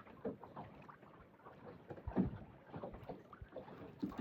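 Quiet sounds of a small fishing boat at rest: water lapping and slapping at the hull, with a few soft irregular knocks, the loudest about two seconds in.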